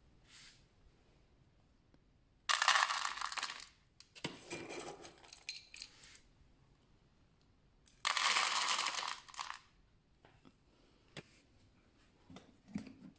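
Dry cat food kibble poured into a bowl: two main pours, each about a second and a half long, with smaller clattering bursts and clicks between them.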